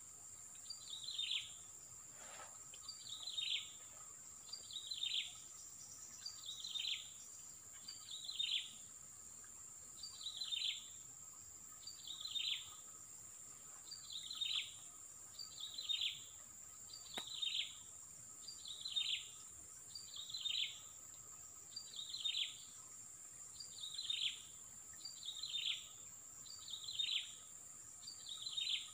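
A bird calling over and over, one short downward-sliding call about every two seconds, over a steady high insect drone.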